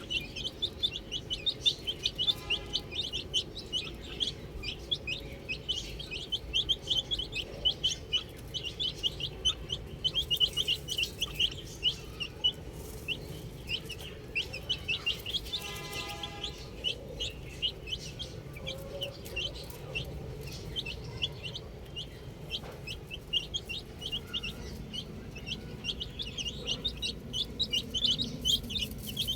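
A flock of baby chicks peeping continuously: many short, high-pitched peeps overlapping. A lower, drawn-out call cuts in twice, near the start and about halfway through.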